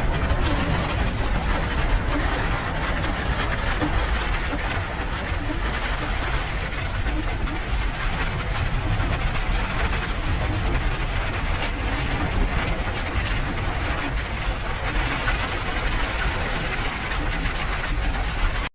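Steady rain, a dense even patter with a low rumble underneath.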